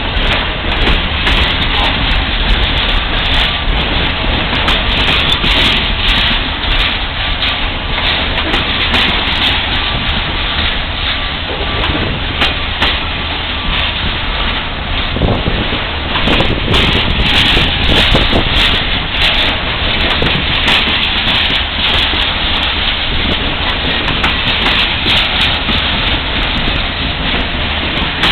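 Freight train rolling past: a steady rush of steel wheels on rail, with many sharp clicks throughout.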